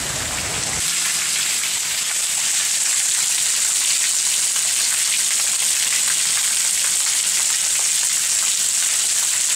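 Steady rain falling on a wet gravel yard, with water dripping off a roof edge and splashing into puddles: an even hiss thick with small drop splashes.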